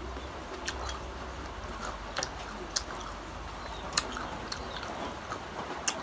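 Crunchy bites and chewing of unripe green mango, with about five sharp crisp crunches spread over a few seconds.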